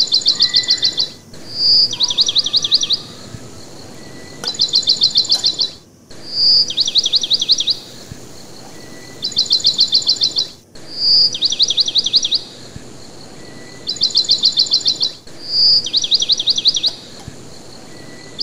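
Bird chirping: a quick high trill of about ten chirps, alternating with a single whistled note. The same phrase pattern repeats every four to five seconds.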